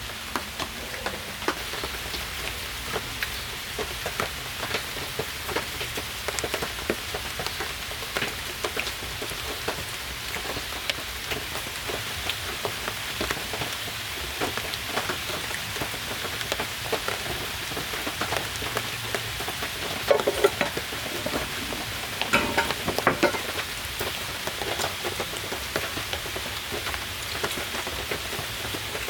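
Steady rain falling, with many separate drops ticking on surfaces, and a short run of louder knocks or clatters about twenty seconds in.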